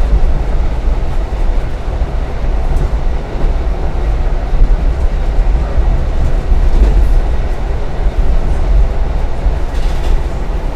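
Passenger train running along the track: a steady, loud low rumble.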